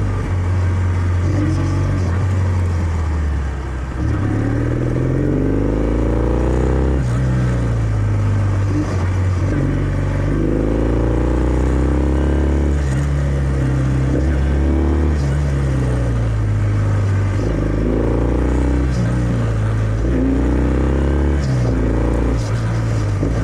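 Kawasaki W650's parallel-twin engine through its stock exhaust while riding, its pitch rising and falling again and again as it accelerates and eases off.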